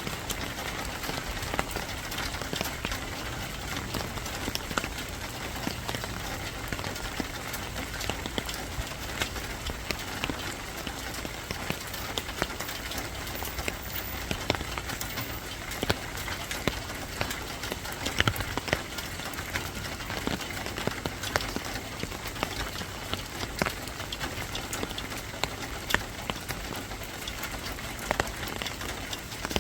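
Steady rain falling, a constant hiss with irregular sharp drips and ticks of drops hitting a surface.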